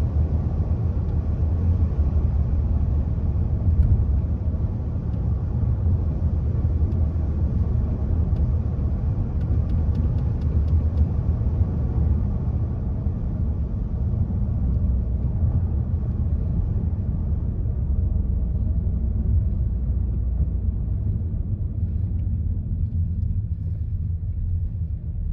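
Steady low road rumble inside a moving car's cabin: tyre and engine noise while driving.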